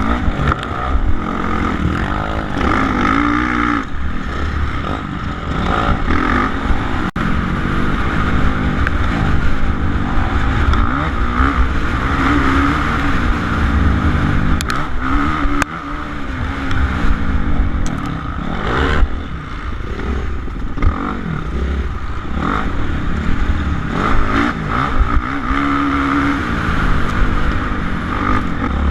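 Suzuki RM-Z450 motocross bike's single-cylinder four-stroke engine revving up and falling back again and again as it is ridden hard, with a few sharp knocks along the way.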